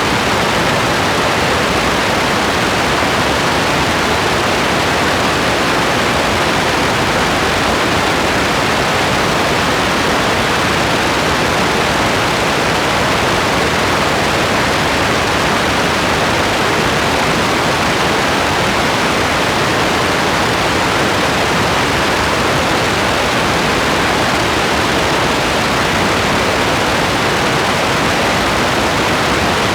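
Steady rain: an even, unchanging hiss with no separate drops, thunder or breaks standing out.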